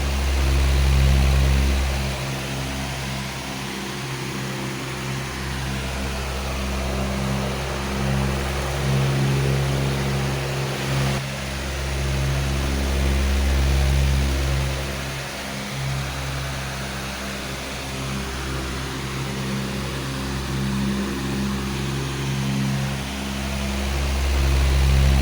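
Powerful electric fan running: a steady low motor hum under a broad rush of moving air, swelling and easing slowly every several seconds.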